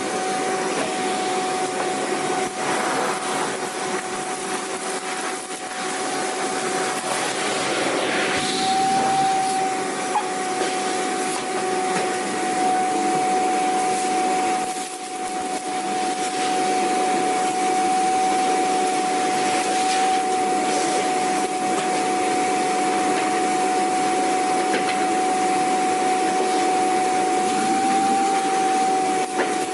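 Vacuum cleaner running steadily: a continuous motor hiss with a high, steady whine on top. The sound dips briefly about halfway through.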